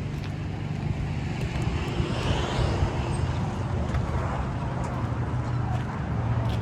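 Steady low engine hum of vehicle noise, with a rushing sound of something passing that swells and fades about two to three seconds in.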